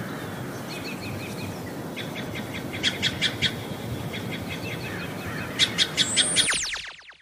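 Outdoor nature ambience: birds chirping over a steady low rushing background. There is a run of short, sharp chirps about three seconds in, another burst near the end, and a quick falling whistle just before the sound cuts off.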